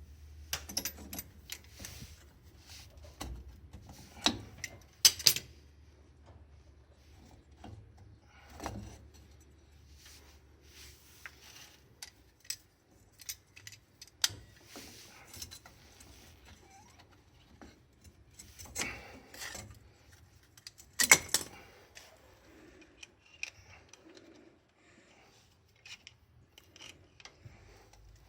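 Scattered metallic clicks, clinks and scrapes of hand tools and drum-brake hardware being worked by hand, with a few sharper clacks about four, five and twenty-one seconds in.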